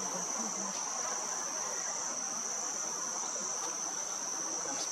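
Steady, high-pitched drone of insects: one unbroken note that holds level throughout.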